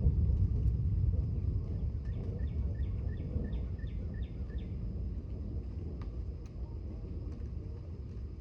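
Low rumble of distant thunder dying away. Partway through, a bird calls a quick run of about eight short, falling notes.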